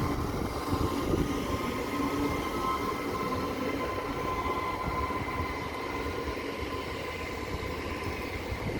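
Trenitalia ETR 104 Pop electric multiple unit moving through the station: a steady rumble of the running train, with a few faint high tones held over it.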